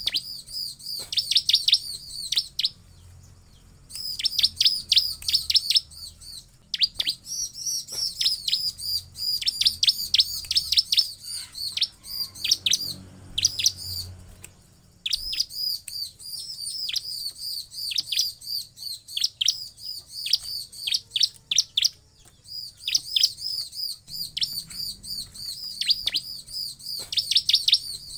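Bar-winged prinia (ciblek) calling: fast runs of high, sharp chirps, each note dropping in pitch, broken now and then by pauses of a second or so.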